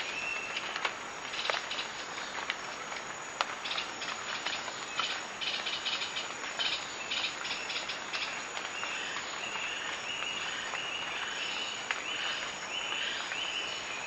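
Insects calling in a dense chorus: short chirps repeated a few times a second over a steady high hiss, with scattered sharp clicks.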